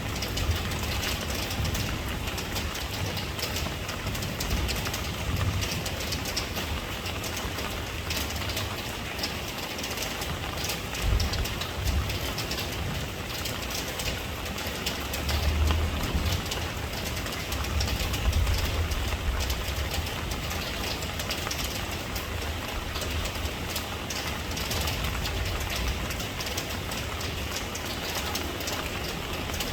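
Steady rain falling, a continuous hiss with many small drop patters, over a low rumble that swells up several times.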